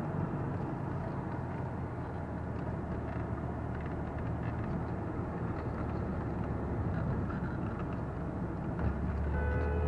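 Lotus Carlton's twin-turbo 3.6-litre straight-six running at speed with steady road noise, heard from inside the car. The low engine drone grows louder about nine seconds in.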